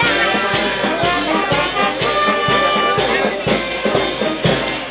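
Brass band music: held brass notes over a steady beat of about two strokes a second.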